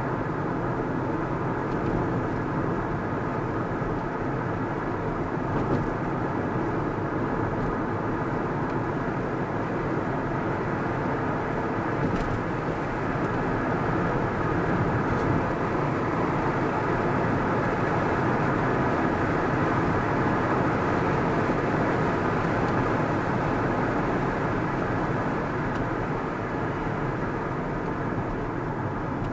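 Car driving along a road at steady speed: an even hum of engine and tyre noise that holds steady throughout.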